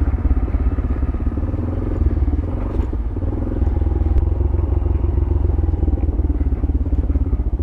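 Yamaha YBR 125G's single-cylinder four-stroke engine running steadily, with a couple of sharp clicks in the middle.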